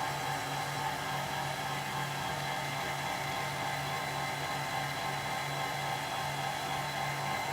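An electric shop-machine motor running steadily, giving a constant hum with a steady higher tone over it.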